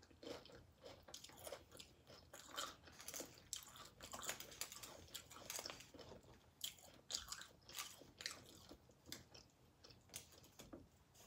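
Quiet, close-miked chewing of tortilla-chip nachos, with irregular crisp crunches as the chips are bitten and chewed.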